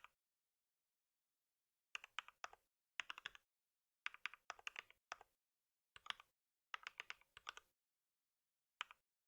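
Typing on a computer keyboard in short bursts of rapid key clicks, separated by pauses of dead silence. There is a single keystroke at the start and another near the end.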